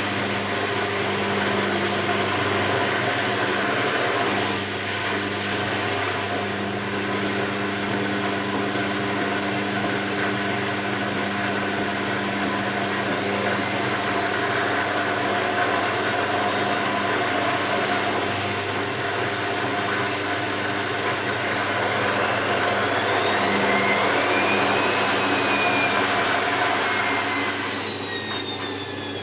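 Hoover VisionTech washing machine running with a steady mechanical hum. Near the end its motor whine rises in pitch, then falls back as the drum speed changes.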